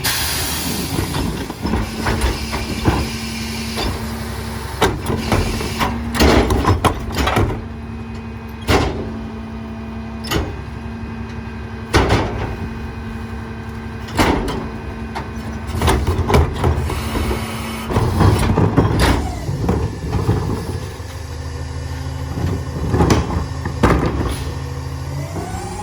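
A Peterbilt 348 garbage truck idling at the curb, its engine a steady hum under a run of sharp bangs and clanks spaced a second or two apart. Near the end the engine's pitch starts to rise.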